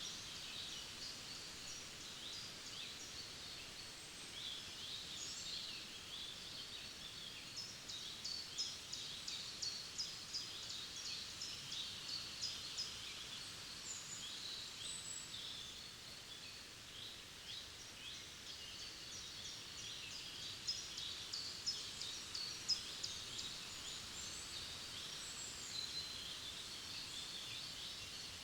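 Several forest songbirds singing and calling, with quick chirps and rapid trills that come thickest about a third of the way in and again a little past the middle, over a steady faint background hiss.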